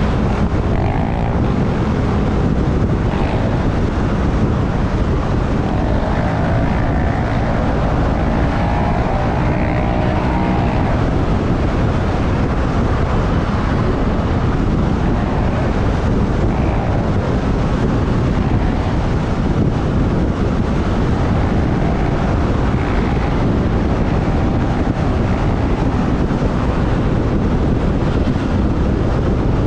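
Wind rushing over the microphone on a moving motorbike, over the steady noise of the motorbike and surrounding traffic, with a faint engine pitch that rises and falls now and then.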